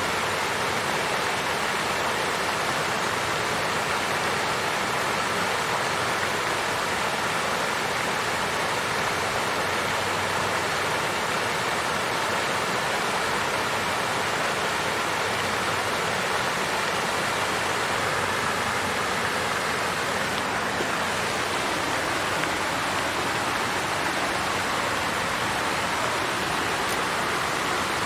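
Water fountain flowing steadily: a constant splashing rush of falling water with no breaks.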